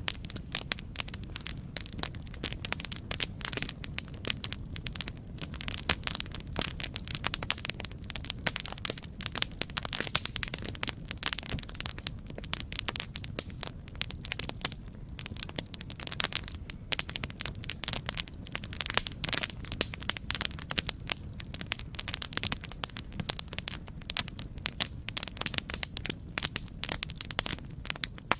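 Campfire crackling: a dense, irregular run of sharp pops and snaps over a steady low rumble of burning, with no let-up.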